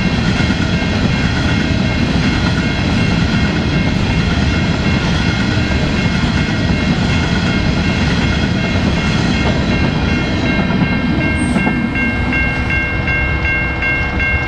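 Coal hopper wagons rolling past on the track with a steady heavy rumble and clatter, the last wagons going by near the end. Over the last few seconds a high tone sounds in fast, even pulses.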